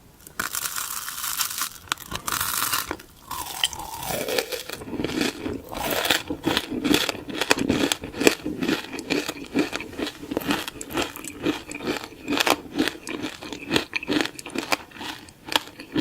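Close-miked eating: a crinkling, tearing noise for the first few seconds, then a long run of crunchy bites and chewing.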